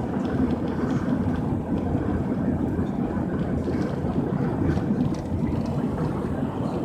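Blizzard wind blowing steadily, a low rushing noise that swells and eases slightly.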